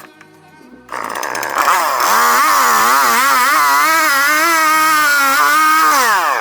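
Chainsaw cutting firewood, its engine pitch wavering up and down under load. Near the end the pitch falls as the throttle is released.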